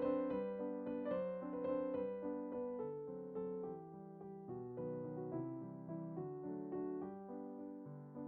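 Background piano music, single notes and chords played at an even pace.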